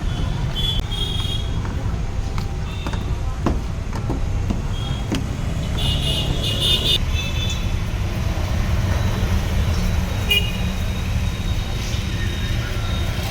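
Street traffic with a steady low rumble and several short, high vehicle horn toots, the longest and loudest about six to seven seconds in.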